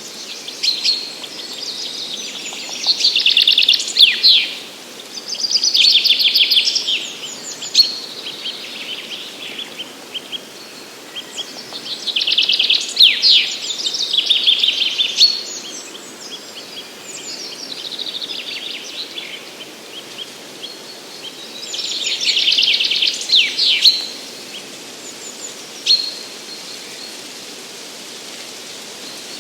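Songbirds singing: song phrases of two to three seconds each, repeated every several seconds, with a few shorter calls between them, over a faint steady background hiss.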